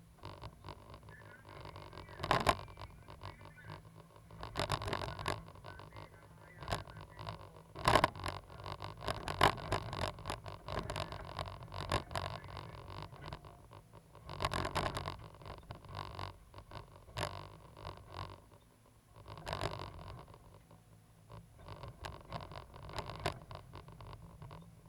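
Cat 320GC excavator at work: the diesel engine runs steadily under repeated scraping and knocking bursts as the machine digs and moves soil.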